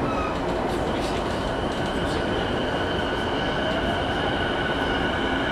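Interior running sound of a JR East E233-1000 series electric train driven by a Mitsubishi IGBT VVVF inverter: a steady rumble of wheels on rail under a high motor whine that grows stronger about two seconds in, with a tone gliding upward a little later as the train picks up speed.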